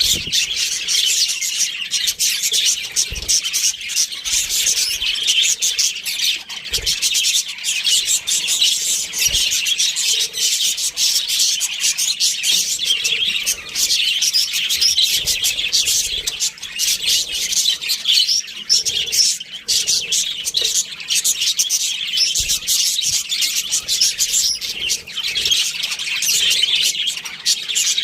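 A group of budgerigars chirping continuously in a dense, overlapping chatter, with many sharp clicks mixed in throughout.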